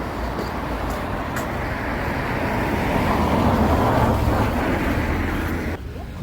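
Road traffic noise: a steady rumble with a vehicle passing, swelling about halfway through and cutting off suddenly near the end.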